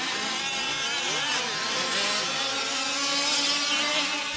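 Several 1/5-scale gas RC off-road trucks' small two-stroke engines buzzing together on the track. One holds a steady pitch while the others rise and fall as they rev and back off.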